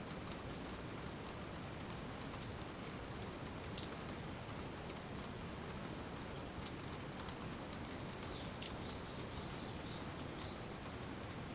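Steady rain falling, with scattered sharp drips and drops ticking on nearby surfaces. About eight seconds in, a short run of faint high chirps sounds over the rain.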